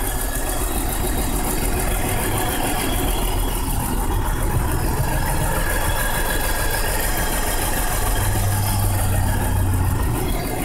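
1999 BMW 528i's straight-six engine idling roughly with a puttering, uneven beat, a misfiring idle with stored misfire codes for cylinders 1, 2, 3, 5 and 6 and an idle control fault. The low engine note swells slightly about eight seconds in.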